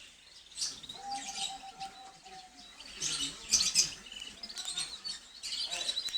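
Gloster canaries chirping and trilling in quick, high, broken phrases, with one held lower whistled note lasting nearly two seconds about a second in.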